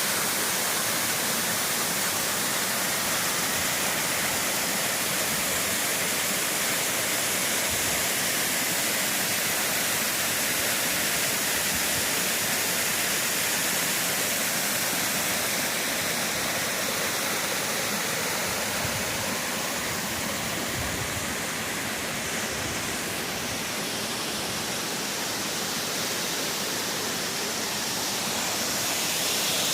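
A small cold mountain stream rushing steadily close by, a continuous loud sound of running water.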